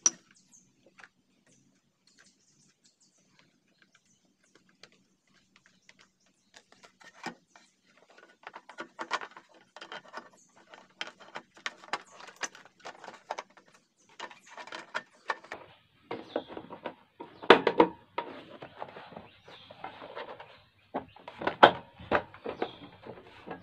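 Irregular clicks, taps and knocks of an induction cooker's casing and parts being handled during reassembly, after several nearly silent seconds, with two louder knocks in the second half.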